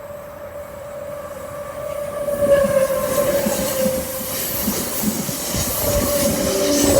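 NSW V-set double-deck electric intercity train approaching and running through the station, growing louder from about two seconds in. A steady high whine sounds throughout, and the wheels clatter over the rail joints.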